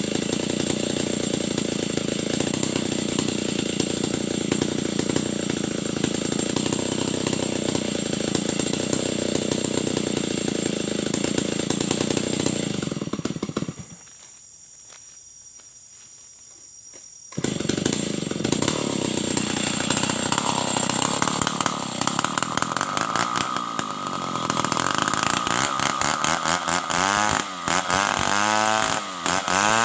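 Stihl 070 two-stroke chainsaw running hard while cutting timber into boards. It drops away for about three seconds around the middle, then comes back, and the engine pitch rises and falls several times near the end as the throttle is worked.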